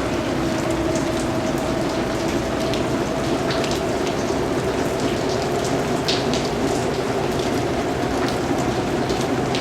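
Steady rain, with single drops tapping sharply here and there over the even hiss; one clearer tap comes about six seconds in.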